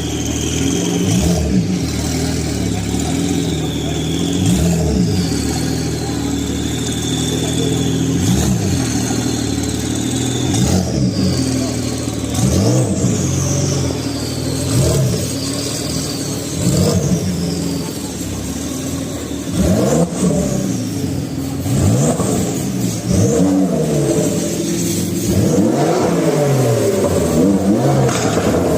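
Porsche engine idling and revved again and again, each blip rising sharply and dropping back to idle, more than a dozen times, coming closer together near the end. A high whistle falls away after several of the blips.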